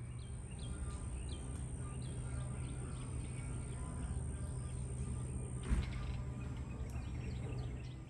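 Birds chirping in many short, quick notes over a steady low hum, with one sharp thump about six seconds in.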